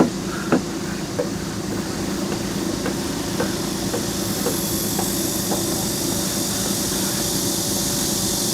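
An engine running steadily, with scattered light clicks and knocks and a hiss that grows stronger about halfway through.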